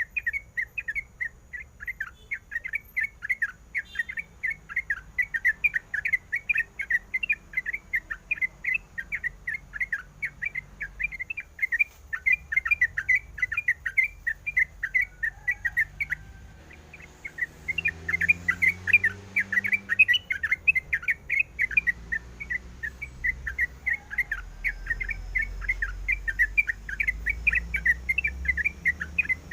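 Yellow-vented bulbul (trucukan) calling in a fast, continuous run of chirps, breaking off briefly a little past the middle before starting again.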